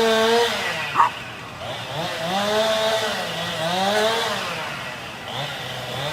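Two-stroke chainsaw cutting into an oak, its engine pitch rising and falling as the chain bites and eases off. There is a short, sharp sound about a second in.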